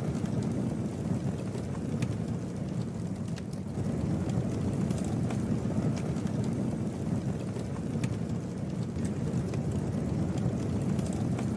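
Campfire burning: a steady low rush of flames with scattered sharp crackles and pops from the burning wood.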